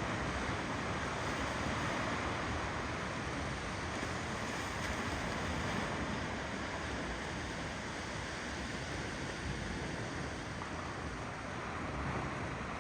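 Ocean waves rolling and washing on a shore in a continuous rush, swelling and easing gently.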